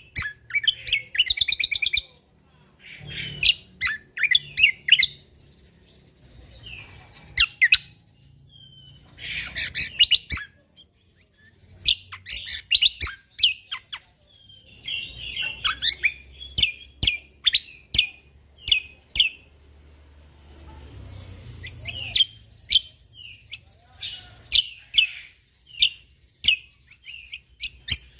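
A cucak kombo (kecial kombok) from Lombok singing energetically in short phrases of sharp chirps, rapid trills and clicks, with brief pauses between phrases.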